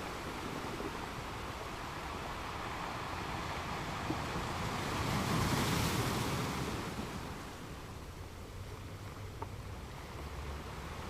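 Ocean surf: a wave builds, breaks about halfway through, and washes back, over a steady background wash of water.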